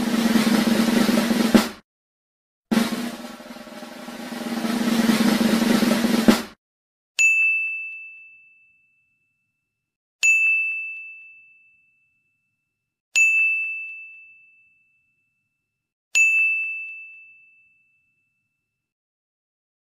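A snare drum roll sound effect swells and ends on a hit, then plays again from the start and builds to a final hit. A single high bell ding sound effect follows, played four times about three seconds apart, each ringing out and fading.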